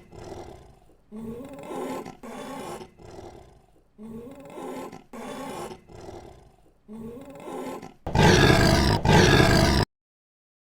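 Big-cat roar sound effects: a series of pitched roaring calls that comes in three matching sets of three, then a much louder, harsher roar in two parts about eight seconds in that cuts off suddenly.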